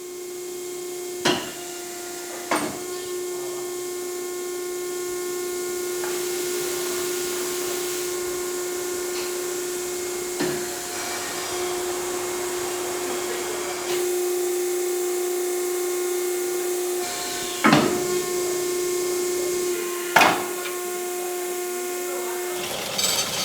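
A machine running with a steady hum and hiss, with a few sharp knocks, about five in all.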